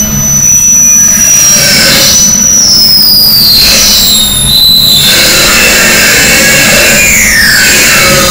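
Harsh noise music: a constant, heavily distorted wall of noise at full loudness, with high squealing tones that hold steady and then slide down in pitch, a lower one sliding down near the end.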